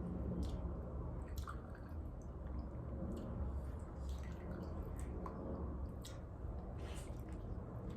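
Close-miked wet chewing and mouth smacks of someone eating birria tacos, with scattered short clicks over a steady low hum.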